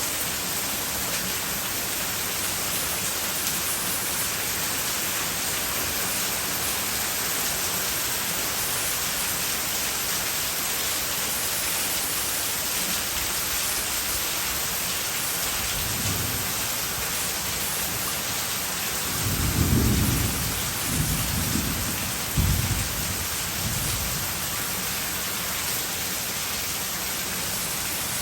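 Heavy rain falling steadily. Deep rumbles rise out of it about two-thirds of the way through, loudest twice in quick succession, as in a thunderstorm.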